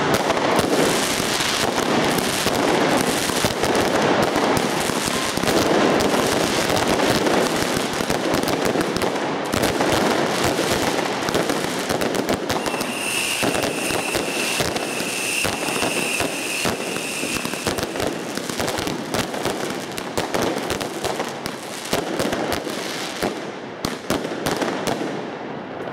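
Fireworks going off in a dense barrage: rapid crackling and popping with bangs from bursting shells, thinning out and getting quieter near the end. A steady high whistle sounds for about four seconds around the middle.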